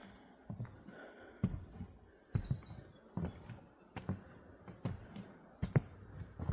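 Footsteps walking, about one step every 0.8 seconds, with a small bird singing one high, rapid trill lasting about a second and a half, starting about a second and a half in.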